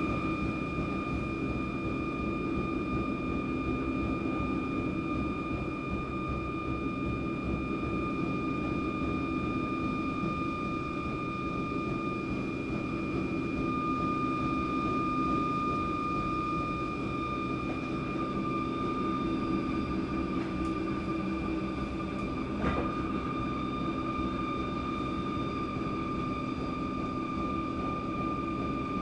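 Inside a suburban electric train: a steady rumble under a steady high-pitched whine, with one short click about three-quarters of the way through.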